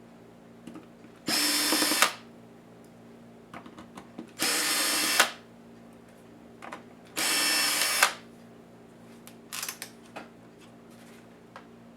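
Power screwdriver spinning in three short runs of just under a second each, about three seconds apart, backing out laptop case screws, with light clicks and taps of handling between runs.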